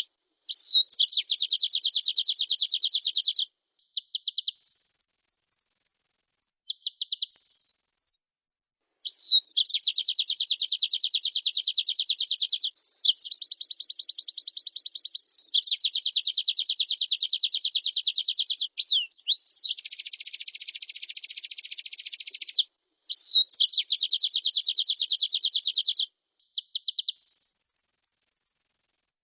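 Pleci (white-eye) singing in long, very fast trills broken by short pauses. These alternate with shorter bursts of a much higher, buzzy trill.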